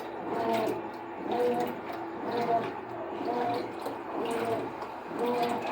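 Consul CWN13AB washing machine agitating in its rinse cycle: the motor whirs in strokes about once a second as the wash action swings back and forth, with water sloshing in the tub.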